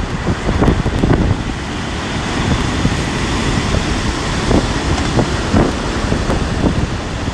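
Strong wind buffeting the microphone in gusts, over the rush of storm surf.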